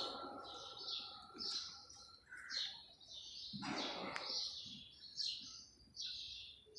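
Small birds chirping: short, high chirps, about two a second.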